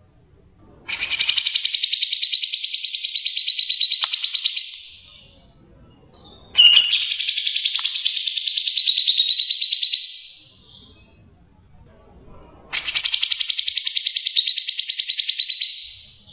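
Songbird singing three long, loud, rapid pulsing trills, each lasting about four seconds, with short pauses between them.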